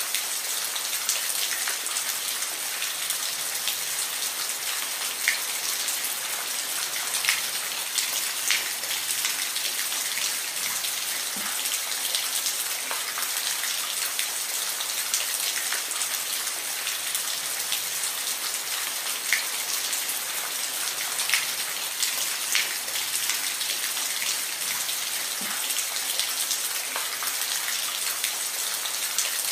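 Steady rain falling, a dense even hiss with scattered louder individual drops landing close by.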